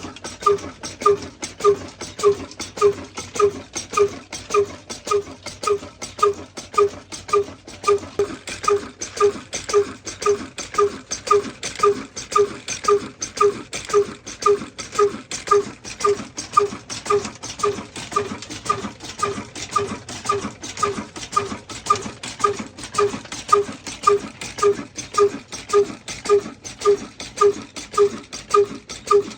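Diesel engine running slowly and evenly, each firing a distinct thudding exhaust beat at about two beats a second.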